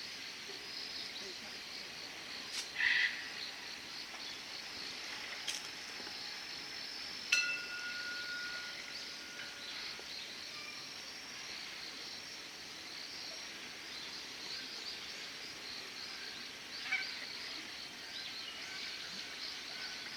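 Outdoor ambience dominated by steady, pulsing chirring of insects. A few sharp clicks are heard, and about seven seconds in a clear ringing tone sounds and fades over a couple of seconds.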